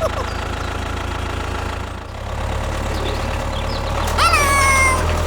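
Steady low engine hum from a mini tractor, dipping briefly about two seconds in and then carrying on. About four seconds in, a high call falls in pitch and then holds.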